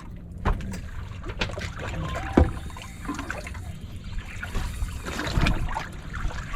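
Water trickling and splashing aboard a fishing boat over a low rumble, with a few sharp knocks, the loudest about two and a half seconds in.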